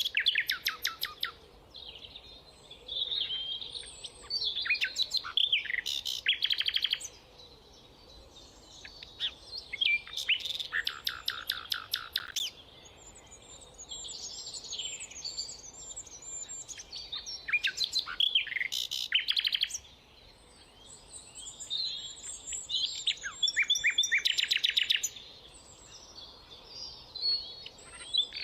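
Rufous nightingale singing: a string of varied phrases, each a second or two long with short pauses between, mixing clear whistles and fast, rapidly repeated notes.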